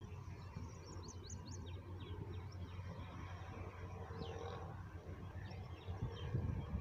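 Small birds chirping in many short, quick, high calls over a low steady rumble, with a few low knocks near the end.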